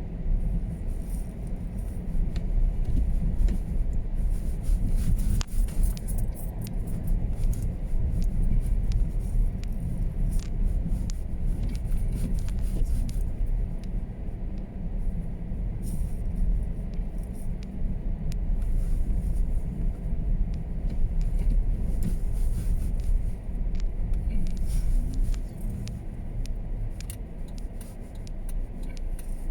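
Car driving on a snowy road, heard from inside the cabin: a steady low rumble of road and engine noise with small rattles.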